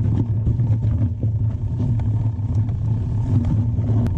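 Mountain bike being ridden over a rough trail: a steady low rumble with frequent rattling clicks from the bike.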